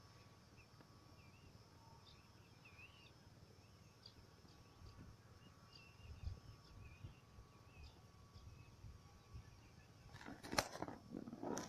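Quiet open-air ambience with faint, scattered bird chirps. About ten seconds in comes a short burst of louder clicks and rustling.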